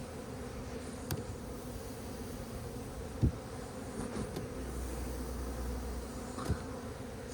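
A mass of honeybees flying around opened hives, a steady buzzing drone from bees excited by the first sunny day. A few soft knocks break in now and then.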